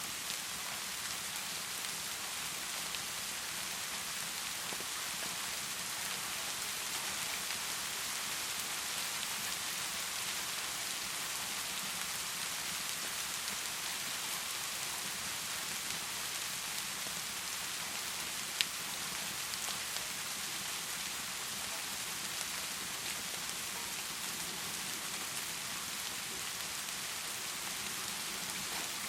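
Heavy rain pouring in a steady, even hiss. A single sharp click stands out a little past the middle.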